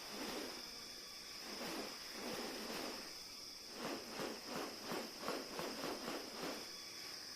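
A bird of paradise giving a series of harsh, rasping calls, with a quick run of about four calls a second in the second half, over a steady high-pitched insect drone.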